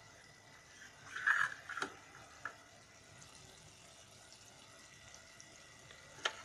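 Okra, onion and tomato cooking in a nonstick wok, with a faint steady sizzle. A short louder burst of sound comes about a second in, then small clicks, and one sharp click comes near the end.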